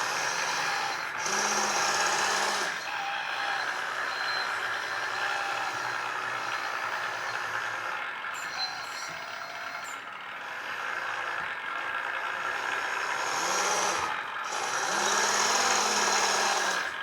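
1/12-scale RC hydraulic steel road roller running: its electric drive and vibration motors and hydraulic pump whir steadily, swelling louder about a second in and again near the end.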